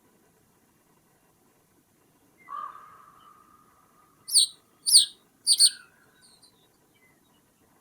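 Wild bird calls: a drawn-out lower note about two and a half seconds in, then three sharp, high, falling calls in quick succession, the middle one the loudest.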